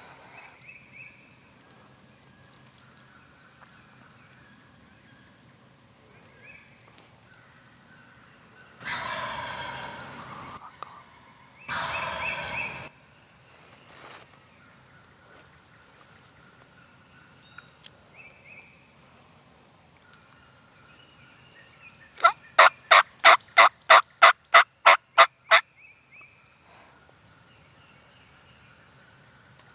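Wild turkey gobbler gobbling close by, twice in quick succession about nine and twelve seconds in. Later a fast run of about a dozen loud, evenly spaced short calls follows, with faint scattered calls between.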